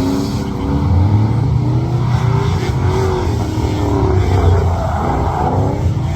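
Car engine revving up and down repeatedly as it is driven hard on a track.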